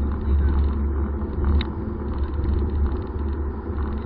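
Car running on the road, a steady low engine and road rumble, from a 2013 Subaru BRZ's flat-four.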